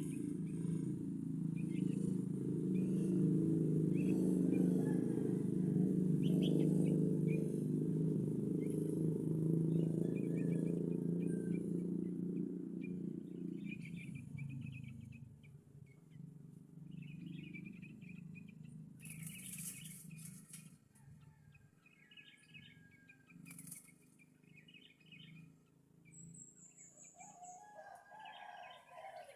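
A loud low rumble that fades away about halfway through, then sooty-headed bulbul chirps in short bursts, repeated every second or two.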